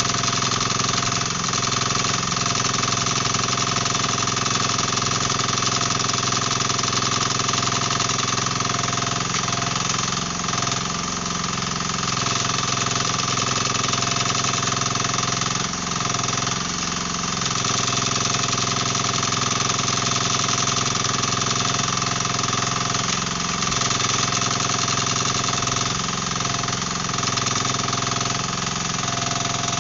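Dasen 15 mini excavator's diesel engine running steadily under way with its hydraulics at work.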